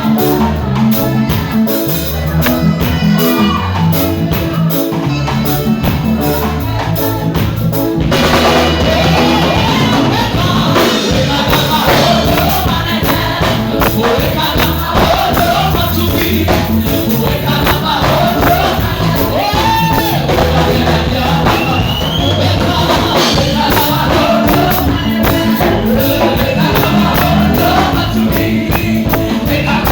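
Gospel praise music played loud on a drum kit and bass, with voices singing over it. The singing fills out from about eight seconds in.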